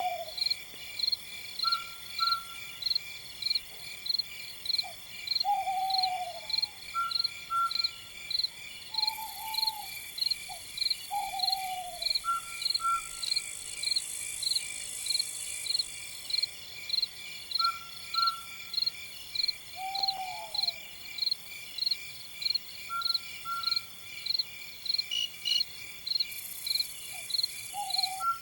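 Night bird giving short downward-slurred calls every few seconds, with a short higher double note repeating about every five seconds, over steady, evenly spaced insect chirping.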